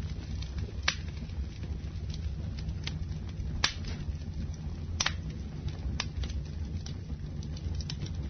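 Campfire burning: a steady low rumble of the flames with scattered sharp crackles and pops, the loudest about a second in and at about three and a half seconds.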